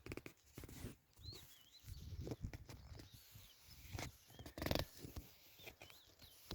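Faint outdoor rustling and irregular knocks, with a louder rustle near the end and a few small birds chirping now and then.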